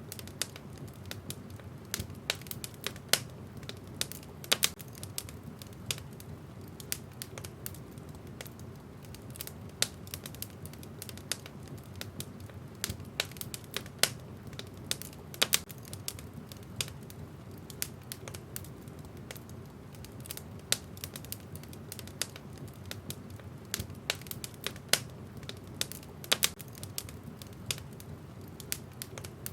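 Wood fire in a fireplace crackling, with irregular sharp pops and snaps, a few of them louder, over a low steady rumble of the flames.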